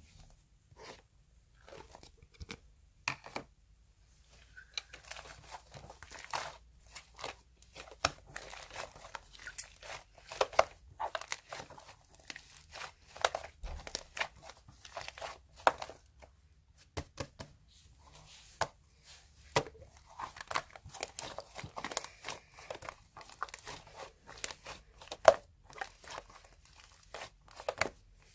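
Slime being squeezed, pressed and stretched by hand, giving irregular crackling pops and clicks as air pockets in it burst.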